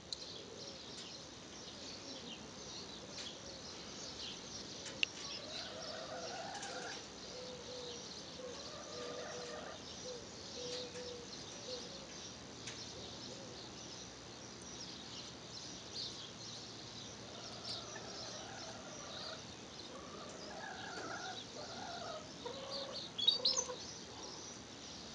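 Birds calling outdoors: two spells of lower calls that bend in pitch, with short high chirps throughout and a few sharp clicks near the end.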